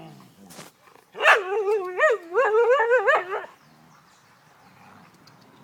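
Sled dog giving a long whining call that rises and falls in pitch for about two seconds, starting about a second in, after one short sharp yelp.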